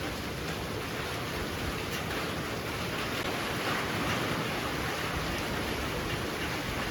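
Heavy rain pouring steadily, a dense even hiss with no single drops standing out, swelling slightly around the middle.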